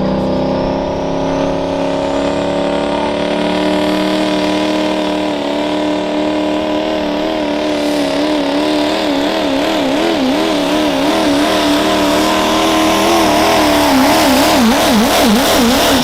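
Diesel pulling truck's engine at full power under load, its pitch climbing slowly and a high whine rising early on. Over the second half the engine pitch wavers rapidly up and down, more and more deeply toward the end.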